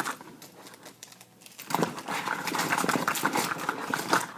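Blind-bag toy packaging being handled: a quiet start, then from under two seconds in a busy run of rustles and small clicks.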